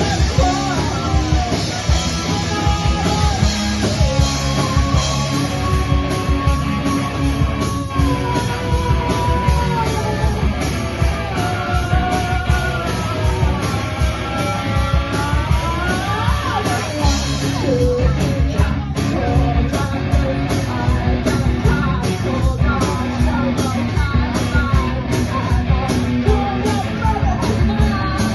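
A rock band playing a song live: a steady drum beat under bass and electric guitar, with a wavering lead melody that bends upward about sixteen seconds in.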